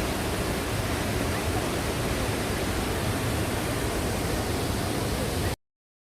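Steady rush of Cheonjiyeon Waterfall's falling water, cutting off abruptly about five and a half seconds in.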